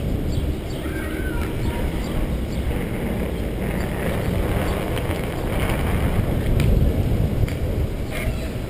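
Wind buffeting the microphone of a bicycle-mounted camera while riding along a trail, with tyre and bike rattle, a few short chirps and scattered clicks.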